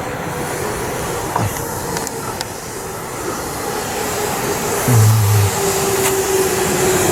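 Electric train running into the platform, its motor whine sliding slowly down in pitch as it slows, over the rumble of the cars, with a brief low hum about five seconds in.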